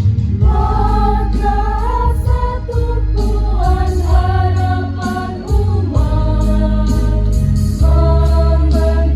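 Choir singing with instrumental accompaniment; the voices come in about half a second in, over a steady bass line.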